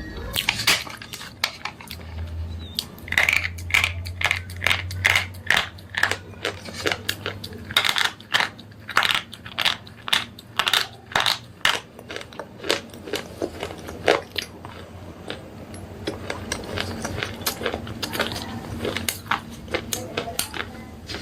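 Slate pencils being bitten and chewed: a run of sharp, brittle cracks and crunches, often two or three a second.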